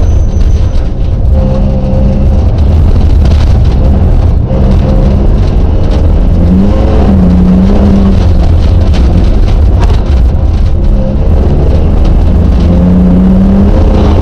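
Rally car engine, heard from inside the cabin, driven hard and loud, its pitch climbing and dropping again and again as the driver accelerates and lifts.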